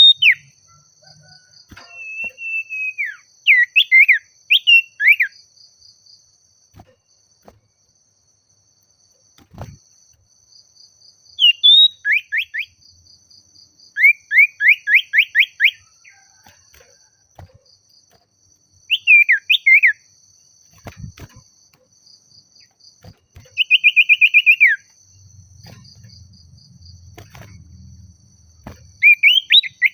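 Common iora singing loud whistled phrases in bursts every few seconds: its rival-calling song. The phrases include a fast run of down-slurred notes and, near the end, a rapid trill, over a faint steady trilling of insects.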